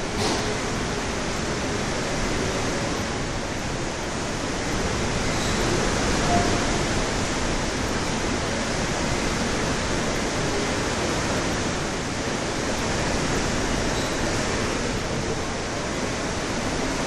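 Heavy rain and strong wind: a loud, steady rushing noise that swells and eases a little.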